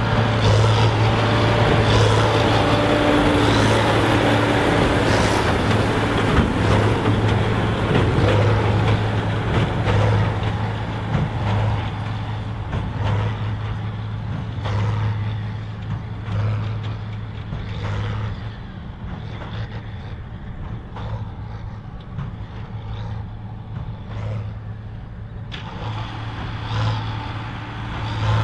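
John Deere 4955's six-cylinder diesel running hard under load, pulling a Krone BigPack big square baler. The baler's plunger knocks about once a second over the steady engine note. Partway through, the sound grows quieter and duller, then turns abruptly fuller again near the end.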